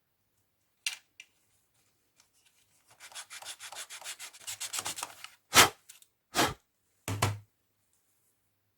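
Hand rubbing strokes on a small plastic LEGO part: a quick run of short scratchy strokes, then three louder, longer strokes near the end.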